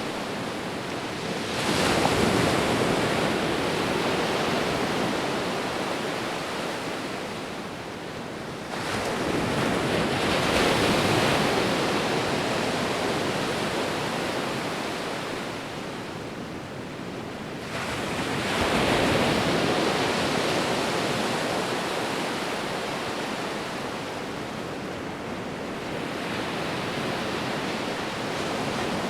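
Sea waves breaking and washing up on a shore, in a continuous rush of surf. Three waves break about 2, 9 and 18 seconds in, each swelling quickly and then fading slowly as the water runs back.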